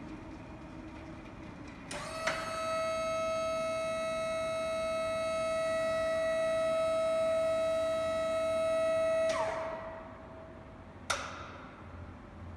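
A steady, high mechanical whine that starts suddenly, holds for about seven seconds and then drops away, followed by a single sharp click.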